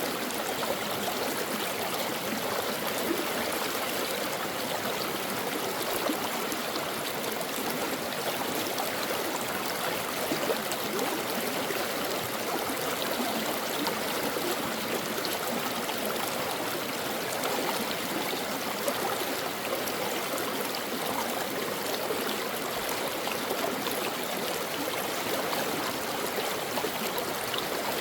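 Stream water running and gurgling over rocks, a steady rushing with fine splashes.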